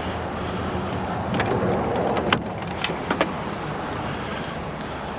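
A handful of sharp clicks and snaps as the power cord is cut and pulled from a discarded TV, the loudest about two seconds in. Under them is a steady rumble like an idling vehicle.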